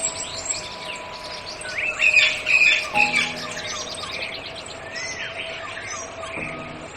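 Many birds chirping and calling in quick succession, with short arching whistled calls among them, over soft held musical notes.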